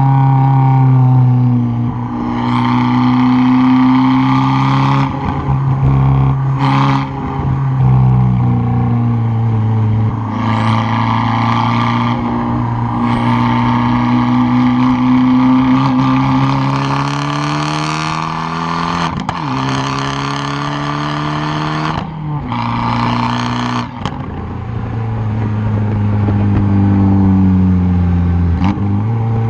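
Fiat 500 Abarth's turbocharged 1.4-litre four-cylinder exhaust, heard up close at the tailpipe, revving up and easing off again and again under hard driving. There are several short, sharp cracks where the revs drop.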